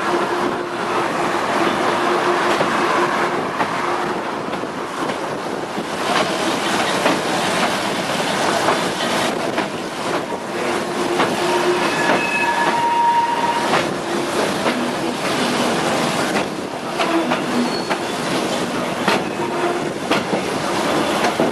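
A train rolling past close by: a steady rumble of wheels on rail with repeated clicks over the joints, and a few brief high wheel squeals around the middle.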